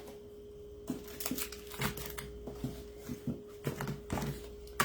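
Craft supplies such as ribbon spools and their packaging being handled and sorted: a string of short taps, clicks and crinkles at irregular moments, over a faint steady hum.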